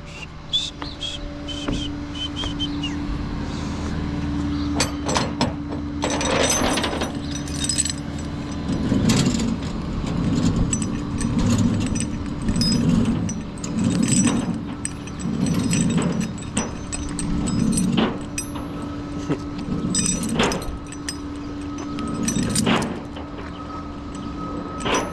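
Tow truck idling with a steady hum while its winch cable is pulled out by hand: scattered metal clinks and clanks, and a run of regular low pulses about every second or two in the middle.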